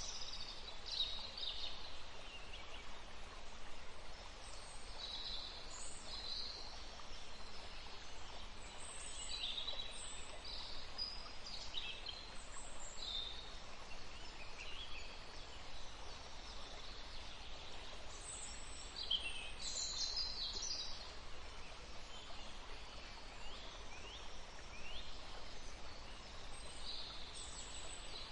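Several songbirds chirping and calling in short, high phrases, including some quick downward-sweeping notes in the second half, over a steady hiss of forest ambience.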